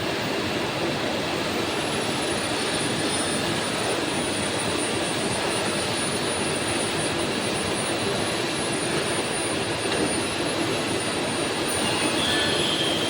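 Engine-part hardening machinery running with a steady, even noise and a thin high-pitched whine that comes in about two seconds in and holds until near the end.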